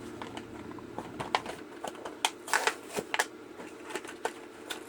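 Plastic blister packaging of a Hot Wheels die-cast car crackling and clicking in irregular bursts as it is handled and opened by hand, over a faint steady low hum.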